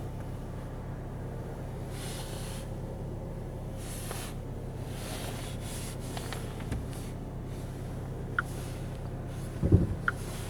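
Volvo S90 T6's 2.0-litre four-cylinder engine running low and steady, with a click, then a dull thump and another click near the end.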